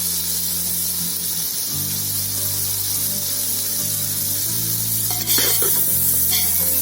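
Sambar masala of onion, tomato and spices sizzling in the pot with a steady hiss. About five seconds in, a spoon starts stirring it and the sizzle grows louder, with short scrapes.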